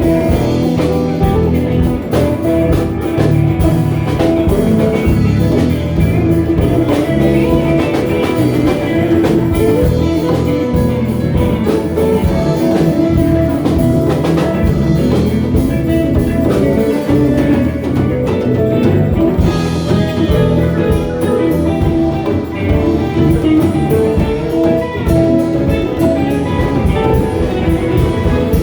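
A band playing an instrumental passage, guitar leading over bass and drums, with no singing.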